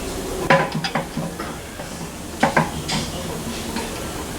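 Metal parts and tools clanking and clinking, in a cluster of knocks about half a second in and another a little before three seconds in, each ringing briefly.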